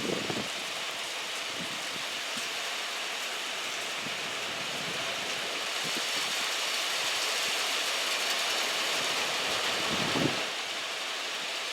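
Steady rain falling, an even hiss that swells slightly in the second half, with a light knock near the end.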